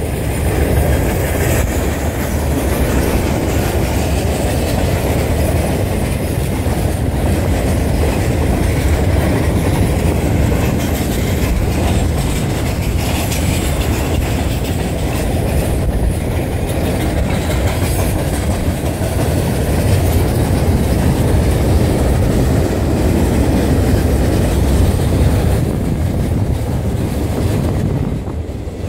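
Long freight train of loaded flatcars rolling past close by: steel wheels running on the rails, a loud, steady noise.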